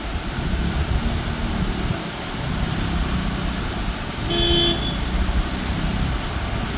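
Steady rain with gusty wind, and a short vehicle horn toot of about half a second, a little over four seconds in.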